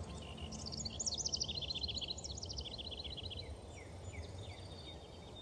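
A bird chirping in a quick run of short, high, falling notes that fade out after about three seconds, followed by a few fainter chirps. A steady low background rumble runs underneath.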